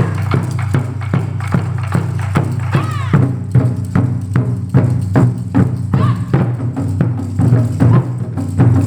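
Ensemble of Japanese taiko drums playing a steady, driving rhythm of strikes over deep, ringing drum tones; the beat grows denser about three seconds in.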